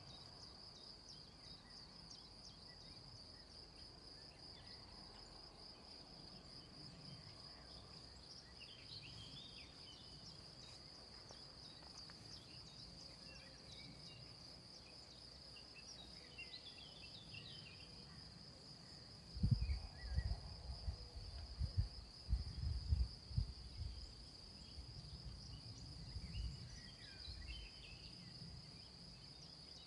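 Insects trilling in one steady high unbroken note, with a few short bird chirps scattered through. A cluster of loud low thumps about two-thirds of the way in.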